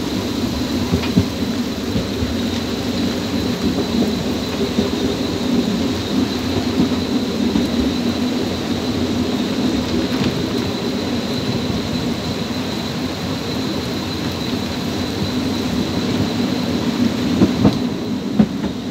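Steady rumble of a narrow-gauge train running along the track, heard from an open observation car, mixed with rain and wind on the microphone. A few sharper knocks come near the end.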